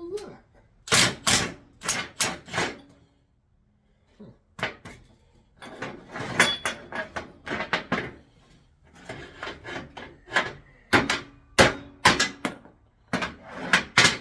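Bursts of sharp knocks and clanks from hand tools working on control-arm parts, several strikes at a time with short pauses; a few strikes ring briefly like struck metal.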